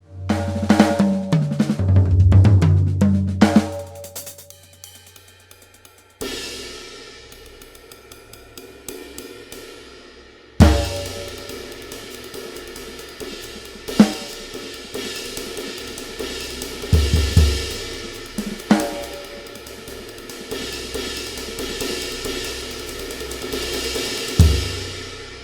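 Pearl e/Merge electronic drum kit being played: a fast run of drum hits stepping down in pitch across the toms, then a long ringing cymbal wash with accented crash and bass drum hits every few seconds.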